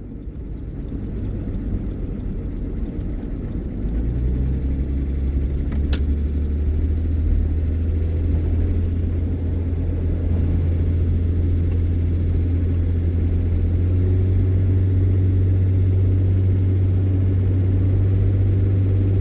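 Vehicle engine running under way, heard from inside the cab, a low drone that grows louder over the first several seconds as it picks up speed. Its hum steps up twice, and there is one sharp click about six seconds in.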